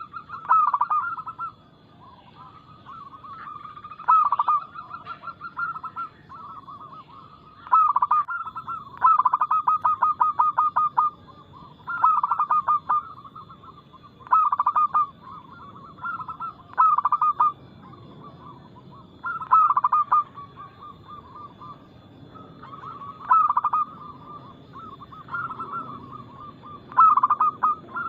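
Zebra doves (perkutut) cooing: loud phrases of rapid staccato coos repeat every two to four seconds, with softer cooing running between them.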